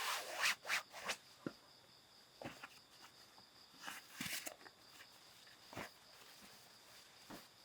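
Irregular crunching rustles on the forest floor, like footsteps through leaf litter, loudest at the start, over a steady high drone of insects.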